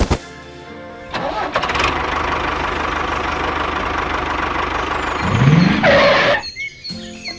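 A small motor driving a DIY mini tractor runs steadily with a dense whirring noise, then rises in pitch for about a second near the end.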